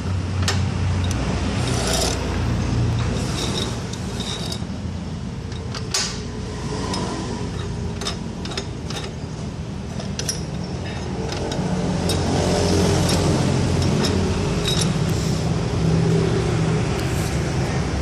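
Steady rumble of road traffic, swelling past about two thirds of the way in, with scattered small clicks and knocks.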